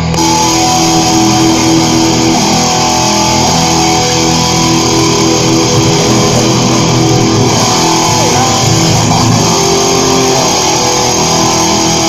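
Electric guitar through an amplifier, letting long notes ring over a steady low drone, with no drum beat.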